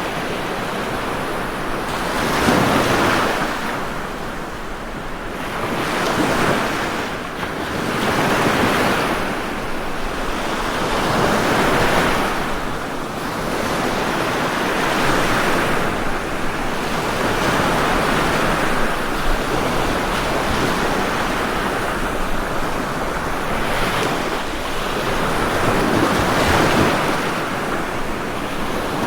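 Ocean waves breaking and washing on a shore, a continuous rush of surf that swells and subsides every few seconds.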